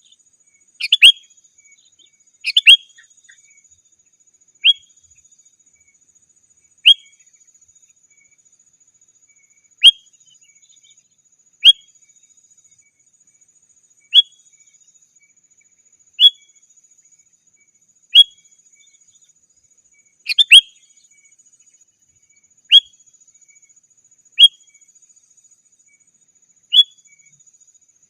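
Sooty-headed bulbul (kutilang) giving short, sharp call notes about every two seconds, a few of them doubled.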